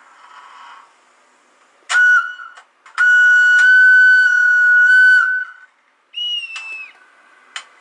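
A model locomotive's sound decoder, heard through its small speaker, playing shrill whistle-like tones: a short toot about two seconds in, a long steady one lasting nearly three seconds, then a higher, shorter note that sags slightly in pitch, with a few clicks between.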